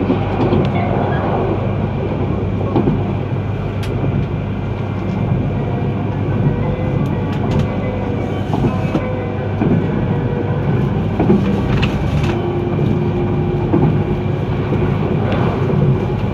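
Inside the cabin of a moving E3-series Shinkansen train: the steady rumble of wheels on the rails, with a few sharper clicks.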